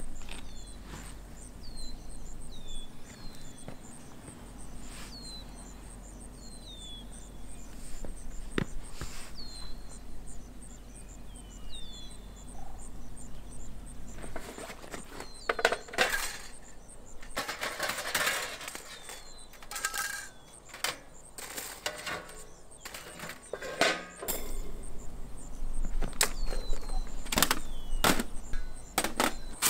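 Small birds calling in short falling chirps over a faint steady high whine. From about halfway, a run of knocks, clatter and rustling as camping gear is handled.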